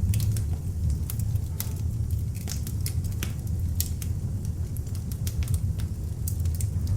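Beech-wood log fire burning in an open fireplace: irregular sharp crackles and pops over a steady low rumble of the flames.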